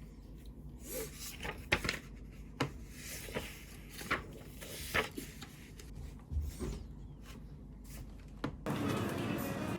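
Light taps, knocks and rubbing of things being handled at a desk in a quiet small room, scattered irregularly, with a steady hiss coming in near the end.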